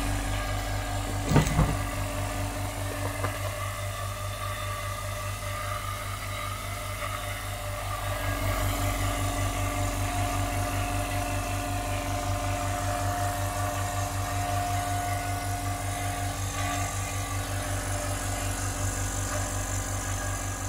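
Tagred TA375 two-cylinder oil-free piston air compressor running steadily with an even, fast pulsing beat as it pumps up its tank, with a single knock about a second in.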